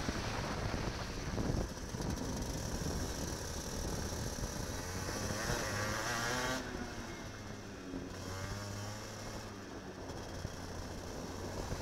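Kart engine heard from the onboard camera over a steady hiss, its pitch climbing through the middle, dropping sharply about two-thirds of the way in as the throttle is lifted, then climbing again near the end.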